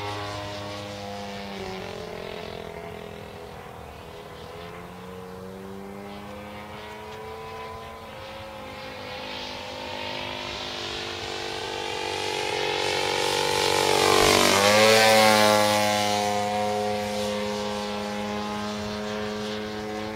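50cc petrol engine of a radio-controlled Seagull Edge 540 aerobatic plane in flight, its pitch shifting as the throttle changes. About three-quarters of the way in it gets louder and higher on a close pass, then its pitch drops sharply as the plane goes by.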